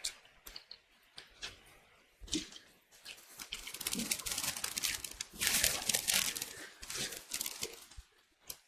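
Rustling and crinkling of food packaging being handled, with scattered clicks and crackles, loudest from about three to seven seconds in.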